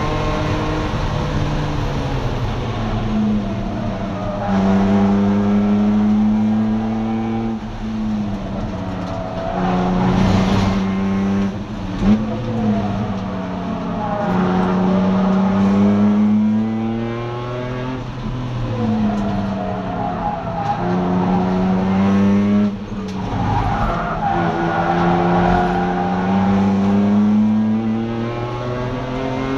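BMW E46 race car's engine heard from inside its caged, stripped cabin, rising in pitch as it accelerates and falling as it slows for corners, in several long rise-and-fall sweeps. A single sharp knock about twelve seconds in.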